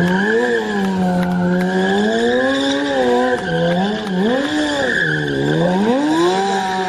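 BMW S1000 sport bike's inline-four engine revving hard under throttle during stunt riding, its pitch rising and falling over and over as the throttle is worked.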